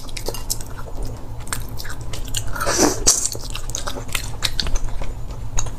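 Close-miked chewing and biting of boiled silkworm pupae: irregular soft crunches and wet mouth clicks, with one louder wet smack about three seconds in.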